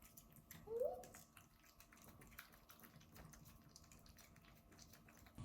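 A house cat gives one short rising chirp-like meow about a second in; otherwise near silence with faint scattered ticks.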